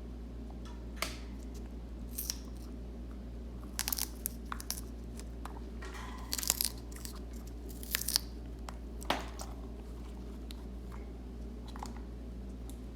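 African grey parrot biting and tearing at a red cabbage leaf: irregular crisp crunches, some in quick clusters, over a steady low hum.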